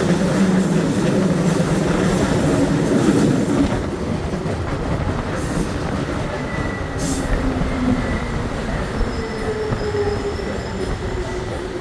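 MetrôBH Série 900 electric metro train running on the line: a steady rumble of wheels on rail that grows quieter after about four seconds. In the second half, faint whining tones drift slowly downward.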